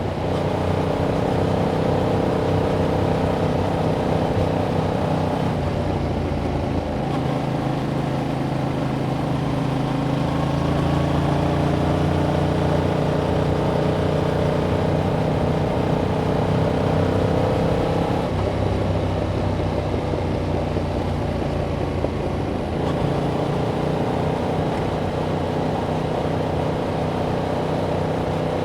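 A 2021 Yamaha MT-07's parallel-twin engine pulling through its stock exhaust while riding. The engine note holds fairly steady, changes pitch abruptly about six seconds in, climbs slowly through the middle, then drops suddenly a little after halfway.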